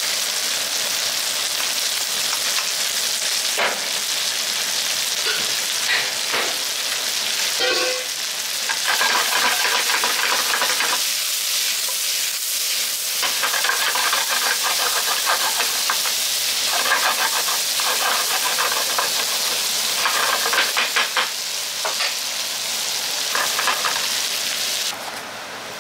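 Chicken and vegetables sizzling in hot oil in a nonstick frying pan while being stir-fried with a wooden spatula. The spatula scrapes and knocks against the pan in runs of quick strokes. The sizzle stops suddenly near the end.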